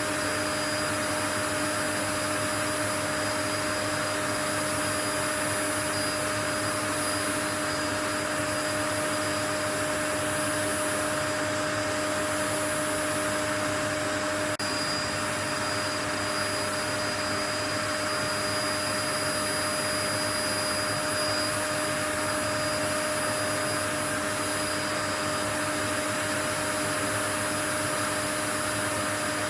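Continuous white noise from an electric appliance motor: an even, unchanging whoosh with a steady high whine in it.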